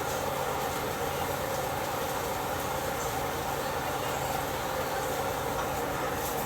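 Steady, even hiss with a faint low hum underneath as eggs and sausages fry in pans on the stove.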